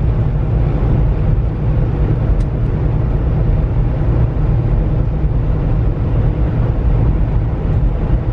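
Steady low rumble inside the cab of a semi-truck driving at highway speed: engine and road noise.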